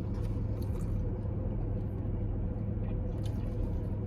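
Steady low hum of a running vehicle engine heard from inside the car, with a few faint clicks.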